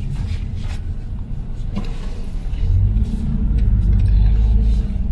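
Low road and engine rumble of a car heard from inside the cabin while driving. It grows louder about two and a half seconds in as the car picks up speed.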